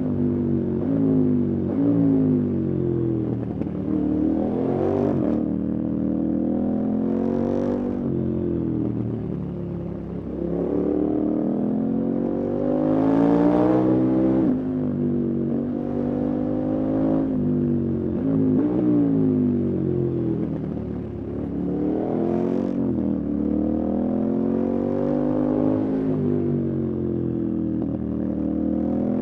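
Motorcycle engine running under way, revving up and easing off over and over, its pitch climbing and then falling again every few seconds.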